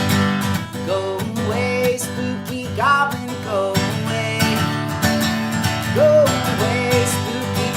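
A children's song with strummed acoustic guitar, a voice singing along.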